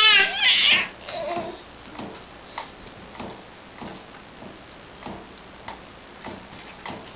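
A baby squealing with glee, a sound the parents take to mean he is happy: two loud high-pitched squeals right at the start, then a softer, lower coo just after. Faint regular ticks follow, about two a second.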